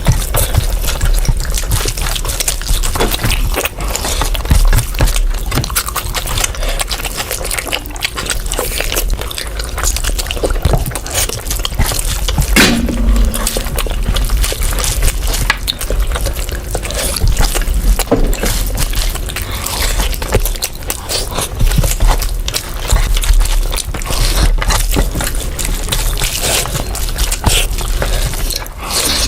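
Close-up wet eating sounds of a person chewing rice and curry: a continuous run of quick smacking and squelching clicks, over a low steady hum.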